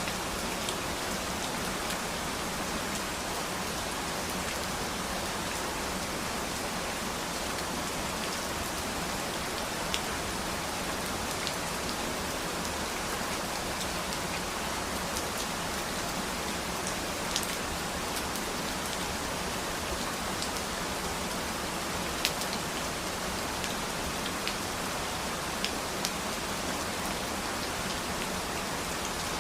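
Steady rain falling, an even hiss with scattered louder drops ticking close by.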